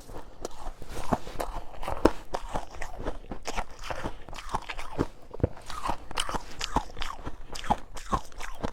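Close-miked crunching and chewing of powdery freezer frost ice: a run of sharp crackly crunches, several a second.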